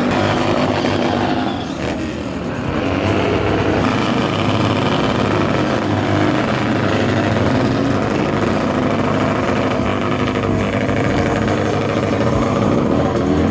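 Motorcycle engines running, several bikes at once, loud and steady with a brief slight lull about two seconds in.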